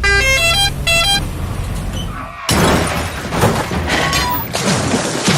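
Cartoon intro sound effects: a quick run of rising electronic notes over a bass tone, then about two and a half seconds in a sudden loud crash that carries on as a noisy rush with a few high whistles.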